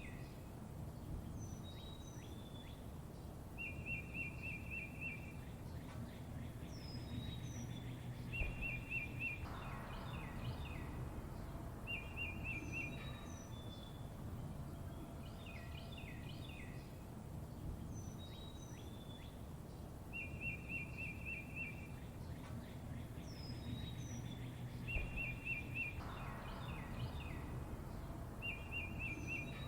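Several small birds chirping, with sharp high calls and quick rattling trills, over a steady low rumble. The same run of calls comes round twice, about 16 seconds apart.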